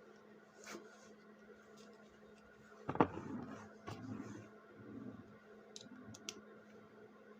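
Repair-work handling noises: a sharp knock about three seconds in, then a couple of seconds of rubbing and scraping and a few light clicks, over a steady low hum.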